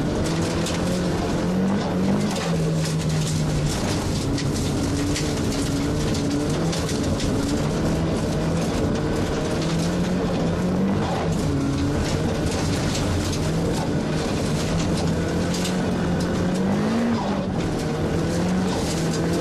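Nissan S15 Silvia race car's engine under hard driving, heard from inside its bare, roll-caged cabin. The engine note repeatedly climbs and drops as it is worked through the gears and lifts for corners, over a constant rush of road noise.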